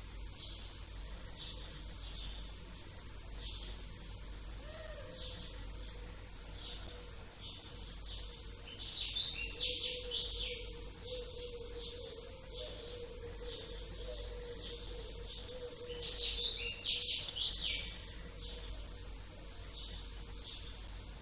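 Small birds chirping: a steady run of short, high chirps, two or three a second, with two louder spells of rapid chirping about nine seconds in and again about sixteen seconds in.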